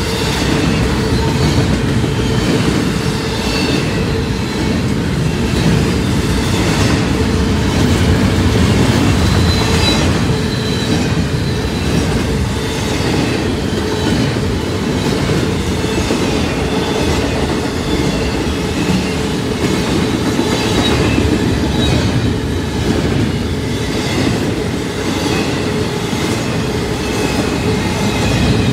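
Norfolk Southern double-stack intermodal freight train rolling past at close range: a loud, steady rumble of steel wheels on rail from the container well cars, with faint high squealing tones from the wheels.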